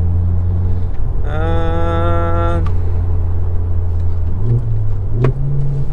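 Car interior while driving: steady engine and road drone. About a second in, a steady held tone sounds for about a second and a half. Near the end the engine note rises as the car speeds up, with a single click shortly after.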